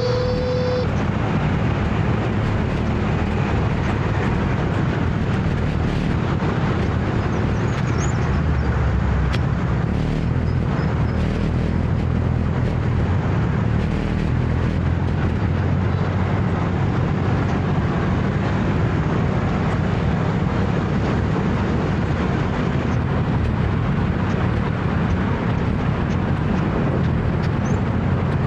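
Motor scooter running steadily under the rider, with steady road and wind noise. A short beep ends just under a second in.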